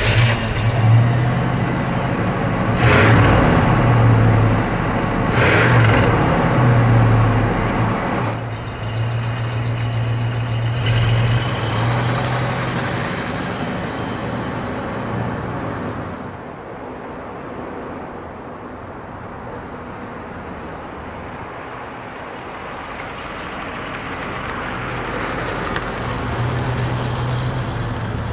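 1978 Cadillac Seville's engine running as the car pulls away, with two brief louder rushes of noise a few seconds in. The engine fades as the car drives off down the street and grows louder again near the end as it comes back.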